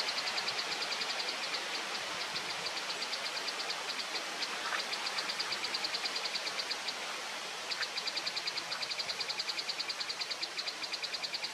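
Fast, evenly spaced high chirps, about ten a second at one unchanging pitch, in long runs with a short break about two-thirds of the way through, over a steady hiss of background noise.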